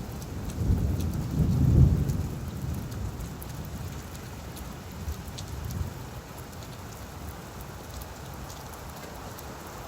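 Steady rain pattering on leaves, with a low rumble of distant thunder that swells about a second in and fades within a couple of seconds.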